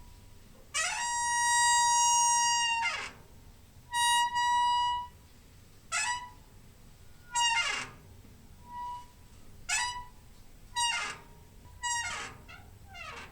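Door hinge squeaking repeatedly as the door is swung: one long creak of about two seconds, a shorter one, then about six short squeaks roughly a second apart, each a clear whistling pitch that bends at its start and end.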